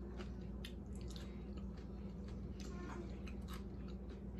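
Close-miked chewing of a chicken taco, with a scatter of short, soft crunches and wet mouth sounds over a steady low hum.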